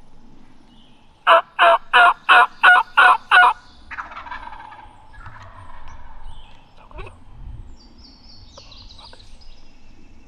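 Wild turkey yelping: a run of seven loud, evenly spaced yelps, about three a second, followed by softer rustling.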